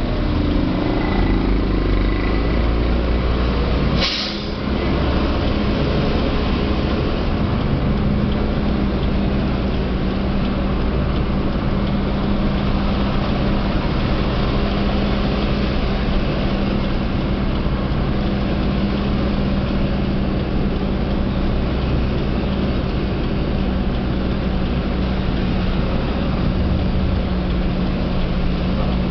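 Diesel truck engine running steadily, with a short sharp hiss of air about four seconds in, typical of an air brake releasing.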